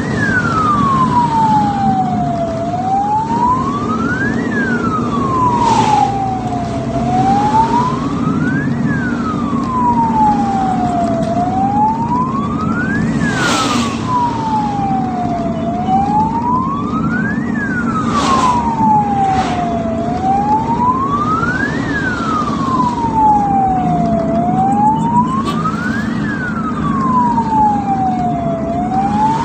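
Ambulance siren on a slow wail, one tone gliding up and down about once every four and a half seconds, over steady road and engine noise.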